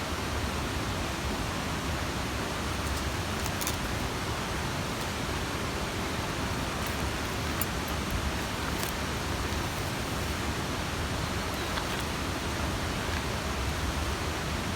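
Steady outdoor rushing noise, even and unbroken, with a few faint ticks.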